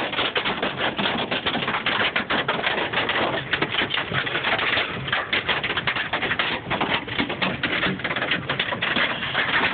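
Hailstones pelting a car's body and windshield: a dense, rapid, unbroken clatter of sharp hits. It is all hail, with no rain mixed in.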